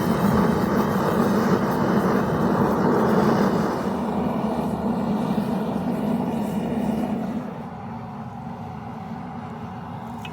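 Forge running with a steady rushing noise, loudest for the first seven seconds or so, then dropping to a lower level; no hammer blows.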